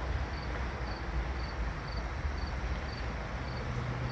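An insect chirping in short high pulses about twice a second, over a steady hiss and a low rumble.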